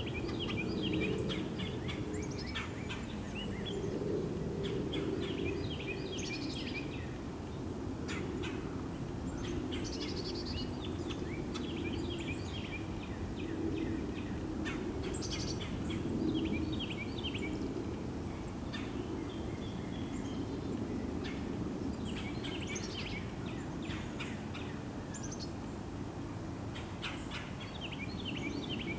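Small birds calling in short, rapid chattering bursts of high notes every few seconds, over a steady low rumble.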